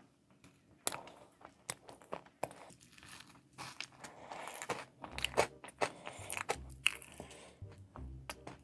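A person biting and chewing crunchy chocolate close to the microphone: a run of sharp, crackling crunches, joined by lower, duller chewing from about halfway through.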